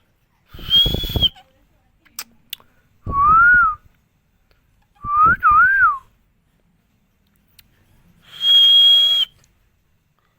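Pet Indian green parrot (rose-ringed parakeet) whistling four clear notes: a steady high whistle, a lower note that rises and falls, a quick double up-and-down whistle, then the steady high whistle again.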